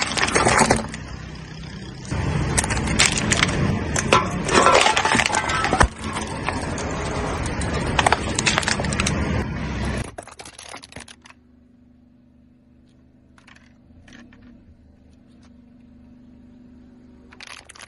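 A car tyre rolling over aluminium drink cans and plastic packaging, crushing them with loud crackling and crunching full of sharp metallic clicks. About ten seconds in the crushing stops and only a quiet low hum remains, with a few faint clicks and a short crackle near the end.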